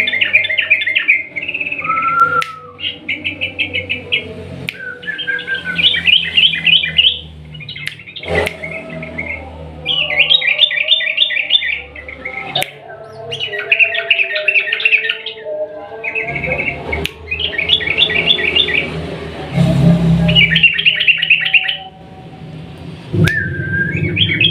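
Yellow-vented bulbul (trucukan) singing its long rolling trill: fast trilled phrases, each about a second long, repeated with short pauses. A few sharp clicks fall between the phrases.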